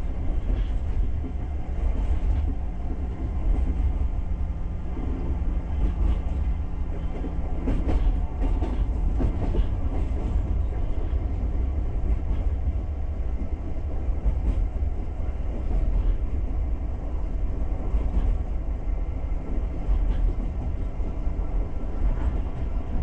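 Passenger train carriage running along the track, heard from inside the car: a steady low rumble of wheels on rails with a few scattered clicks over rail joints.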